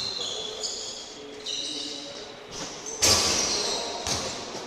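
Basketball game on an indoor court: sneakers squeaking in short high chirps, and a loud thud about three seconds in, with another a second later, ringing in the hall.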